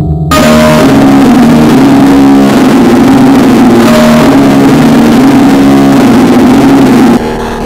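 Loud, harsh, distorted synthesized music: a buzzy low melody steps back and forth between a few notes over a dense noisy layer. It starts abruptly and cuts off suddenly near the end, dropping back to quieter music.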